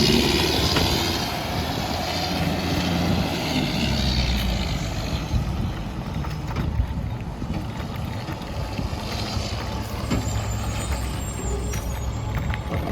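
Mack MR rear-loader garbage truck running, its diesel engine a steady low drone throughout, with a hiss that fades over the first second or so and swells again a few seconds in.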